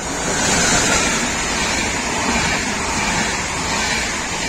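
Regional passenger train, a Trenitalia E.464 electric locomotive with double-deck coaches, passing through the station: a steady rush and rumble of wheels on rail that is loudest about a second in and stays loud as the coaches go by.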